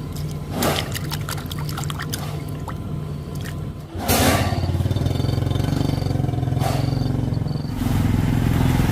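A small engine running steadily with a low hum, getting louder about four seconds in and again near the end, with scattered clicks and knocks and a few short rushing noises.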